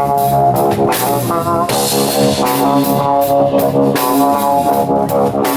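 Live rock band playing an instrumental passage: electric guitar chords ringing over a drum kit with steady cymbal hits, and no singing.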